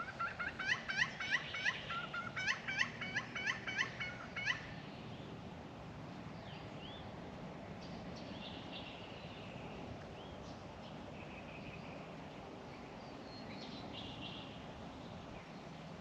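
A bird calling a fast run of short upswept notes, about three a second, for the first four and a half seconds, then stopping. Fainter, scattered bird calls follow over a steady outdoor background.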